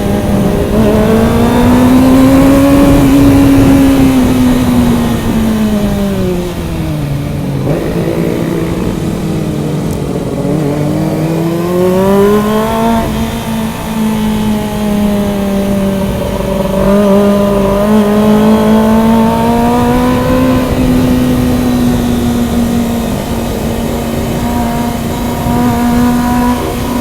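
Motorcycle engine running at high revs while riding. Its pitch sinks to its lowest about seven seconds in, climbs again, and then holds fairly steady.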